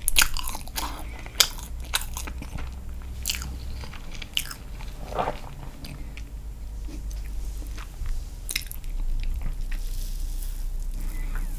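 Close-miked eating sounds of castella sponge cake soaked in milk: wet chewing, smacks and mouth clicks. They come thick at first and thin out after about four seconds.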